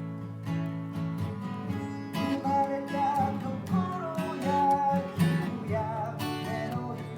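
Acoustic guitar strummed as song accompaniment, with a sung melody over the chords from about two seconds in.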